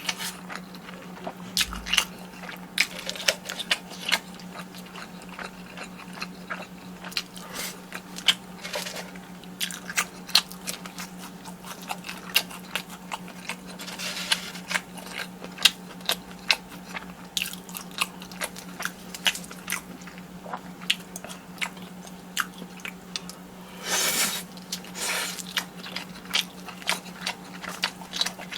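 Close-miked eating of Carbo Buldak noodles and fried cheese sticks: chewing and biting with many sharp crisp clicks and a couple of longer wet bursts, over a steady low hum.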